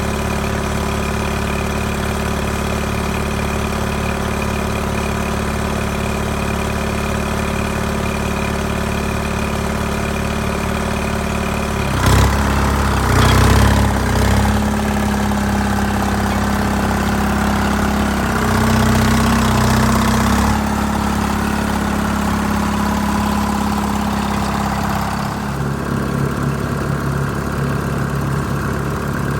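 Allis-Chalmers HD5 bulldozer's diesel engine during a cold-morning start, running steadily. About twelve seconds in it becomes louder and rougher for a couple of seconds, does so again for about two seconds a little later, then settles back to a steady run.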